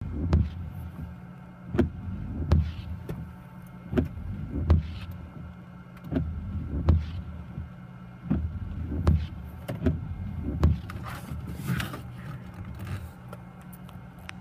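Windshield wipers inside a running car, sweeping back and forth in heavy rain with a low thump at each end of the stroke, over a steady engine hum.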